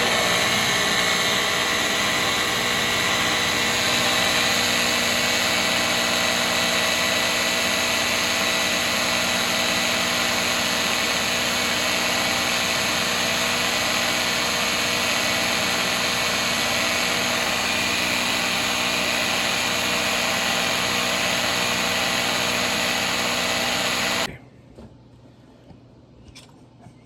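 Electric kitchen chopper running steadily as it grinds horseradish root, a high motor whine with blade noise that stops suddenly about 24 seconds in. A few faint clicks follow near the end.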